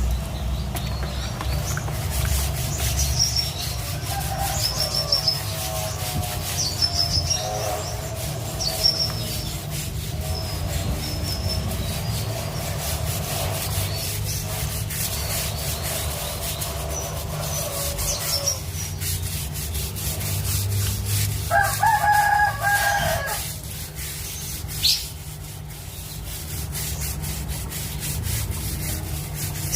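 Short high bird chirps repeating through the first dozen seconds, then a rooster crowing once about 22 seconds in, over a steady rubbing, scraping noise.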